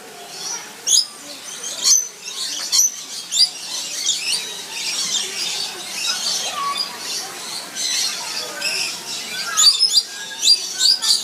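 Birds calling: many short, high chirps and squawks in quick, irregular succession, thickest in the middle.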